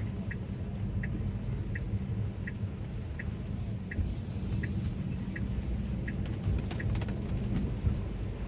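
Tesla's turn-signal indicator ticking evenly, about once every 0.7 seconds, for a right turn, over steady road and tyre noise inside the car's cabin. The ticking stops near the end.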